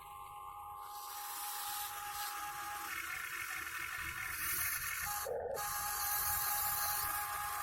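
Electric gear motors of a Huina 1580 RC excavator whirring and grinding, with the pitch and mix changing every second or two as different functions start and stop.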